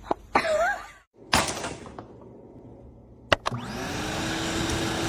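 Brief sounds cut together, then about three and a half seconds in a small electric motor spins up and runs with a steady whir.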